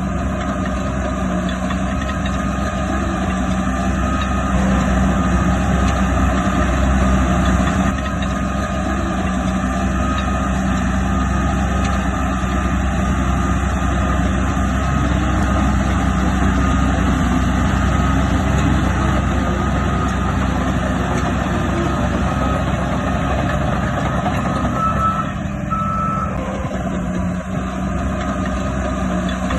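Heavy diesel earthmoving machinery running steadily, with a reversing alarm beeping over it in a repeated pattern for most of the time.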